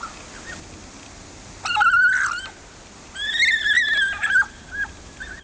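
An animal giving two high-pitched, wavering cries, each about a second long, about two and three seconds in.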